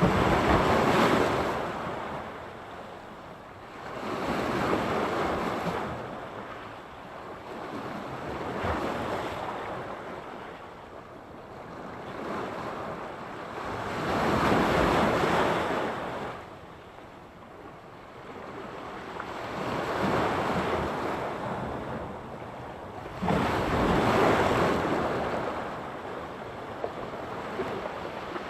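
Sea surf: waves breaking on the shore one after another, about every four to five seconds, each a rush of water that swells and then fades.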